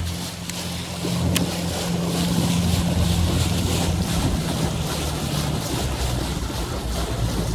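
Boat's outboard motor running under way as a steady low drone that gets louder about a second in, with wind buffeting the microphone.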